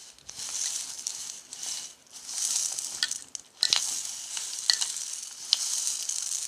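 Thick, chewy clear slime being squished and worked by hand, a crackling, sizzle-like run of sound in several stretches, with a few sharp pops.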